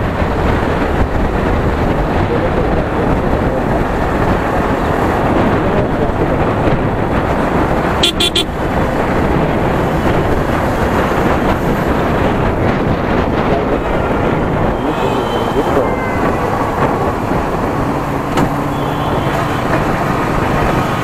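Riding noise from a Yamaha R15 V3 motorcycle in traffic: a steady rush of wind on the microphone over the engine and passing vehicles. A short vehicle horn beep about eight seconds in.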